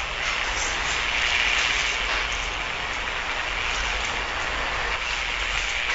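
Steady hiss and crackle of old recording noise, with a constant low hum underneath.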